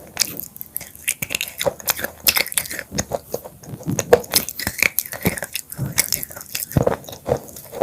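Close-miked biting and chewing of crunchy black chips: dense, irregular sharp crunches and crackles one after another.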